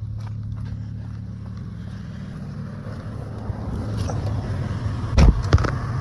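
Lexus car's engine and road noise as a steady low hum heard from inside the cabin, growing louder after a few seconds, with a quick cluster of sharp knocks about five seconds in.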